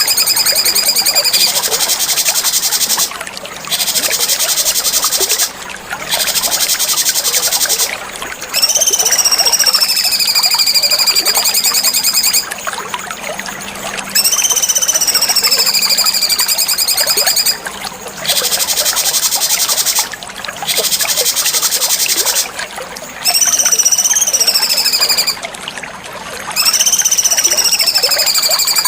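Cucak cungkok songbird singing in long runs of rapid buzzy trills under high whistled notes that swoop down and rise again. Short breaks come every few seconds.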